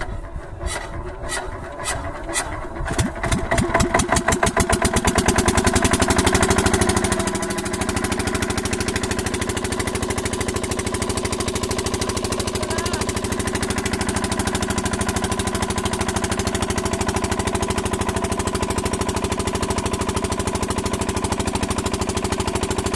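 Water pump engine starting: separate strokes come faster and louder over the first few seconds as it catches. About seven seconds in it settles into a steady, even running beat.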